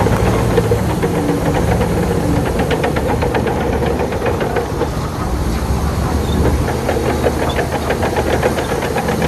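Shantui bulldozer's diesel engine running under load, with two spells of rapid, evenly spaced clatter.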